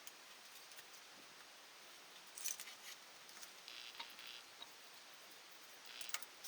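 Faint scattered clicks and rustles: a cluster about two and a half seconds in, a soft hiss around four seconds, and another cluster of clicks near the end.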